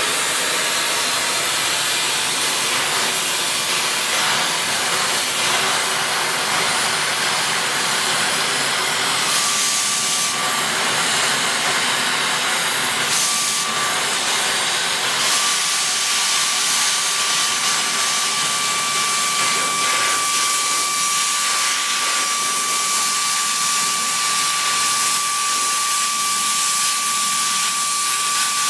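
Oxygen/LPG cutting torch flame hissing steadily while it preheats and cuts steel plate. A thin, high whistling tone comes in briefly about ten and thirteen seconds in, then holds steady from about fifteen seconds on.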